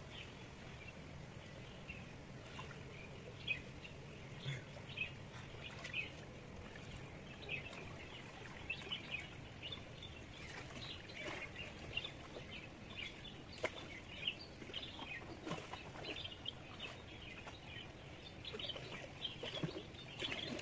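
Small birds chirping, many short high calls scattered throughout, over a faint steady background.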